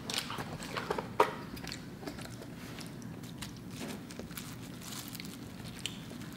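Close-up crunchy chewing of dry, sugar-coated puffed-wheat cereal (Sugar Crisp), with several sharp crunches in the first second and a half, then quieter.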